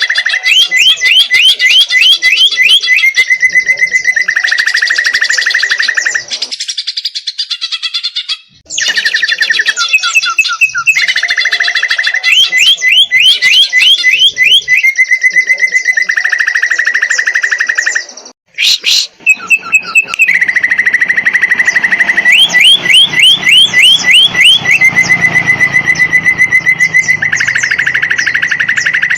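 Green leafbird (cucak ijo) in full song: long fast trills alternating with runs of quick rising chirps. It is broken twice by brief gaps, and much the same sequence of phrases comes round about every ten seconds.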